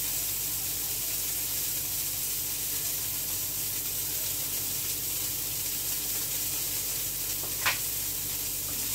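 Steady sizzling of food frying in a pan, over a low kitchen hum. One short, sharp sound stands out near the end.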